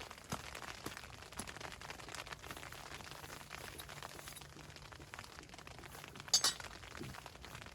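Stones clacking together as they are set down to build a stone cooking hearth, with scattered small knocks and rustling and one sharp, bright clink a little over six seconds in.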